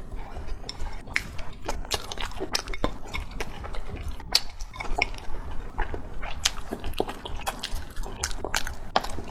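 A person chewing food close to the microphone, with many irregular sharp mouth clicks and smacks.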